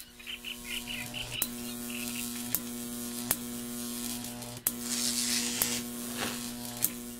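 Steady electric buzzing hum, a designed sound effect, broken by about six sharp crackling zaps at irregular intervals of roughly a second.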